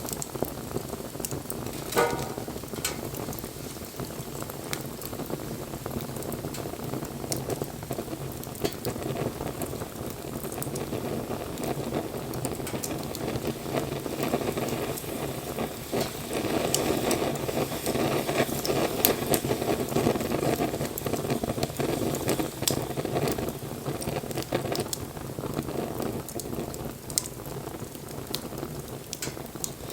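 Wood fire burning: a steady rushing hiss of flame with scattered crackles and pops of burning wood, one sharper pop about two seconds in.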